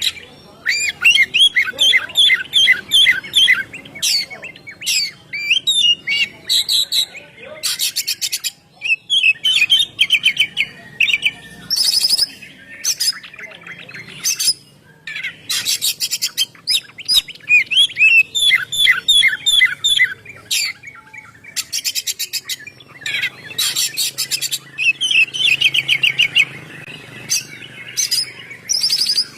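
Oriental magpie-robin (kacer) singing a long, loud song. Runs of fast repeated trilled notes alternate with short rasping calls, with only brief pauses between phrases.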